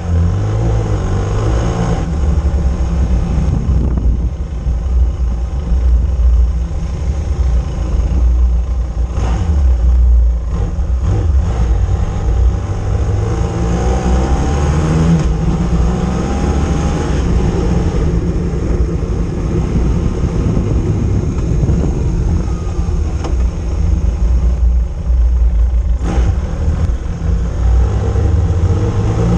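Road motorcycle engine running on the move, its pitch rising and falling with the throttle and gear changes, over a heavy low rumble.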